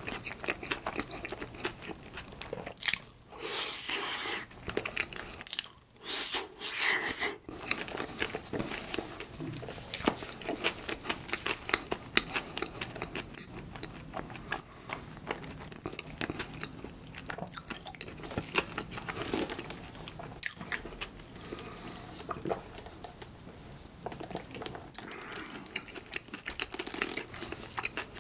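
A person biting and chewing soft bread filled with creamy potato salad: many small mouth clicks, with louder stretches of chewing about three seconds in and again around six to seven seconds in.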